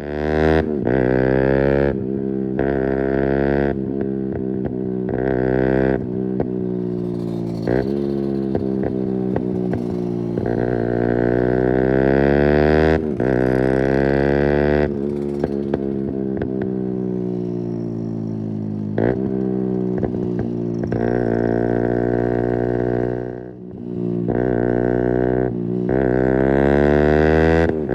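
Keeway RKF 125's single-cylinder engine through a Mivv exhaust with the dB killer removed, under way: revs climb and drop back at each gear change, with a steady spell and a roll-off partway through before it pulls hard again. Heard from a phone in the rider's backpack.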